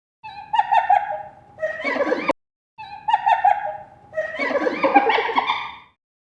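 A farm animal calling twice, each call a rapid string of pulsed notes lasting about two seconds.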